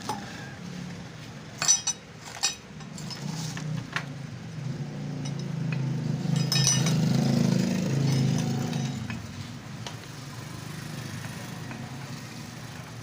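Loose steel bolts and sprocket parts clinking together as they are handled and set down: a few sharp metallic clinks a couple of seconds in, and more a little after the middle. A low hum swells and fades in the middle.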